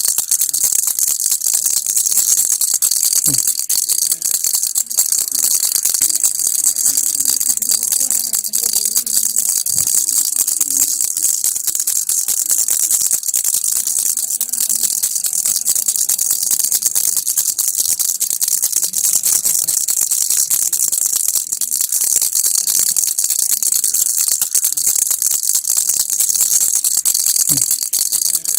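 Baby rattle (kilukki) shaken nonstop: a dense, steady, bright rattling of the loose pieces inside.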